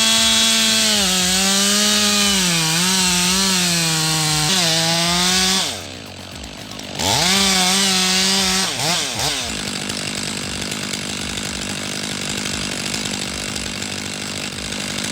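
Chainsaw running at full throttle, its pitch dipping and wavering as it loads up in the cut. It drops off about six seconds in, comes back briefly at high speed near the middle with a few quick revs, then falls to a quieter, steadier running sound for the rest.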